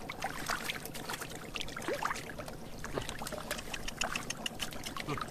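Water trickling and splashing, with scattered drips and small plops.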